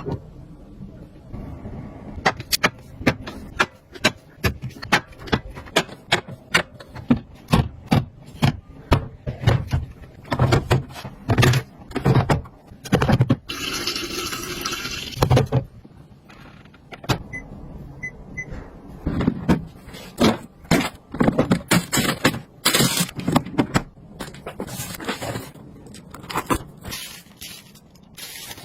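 Small household items being handled and set down: many sharp clicks and knocks in quick irregular succession, with a rushing hiss lasting about two seconds halfway through.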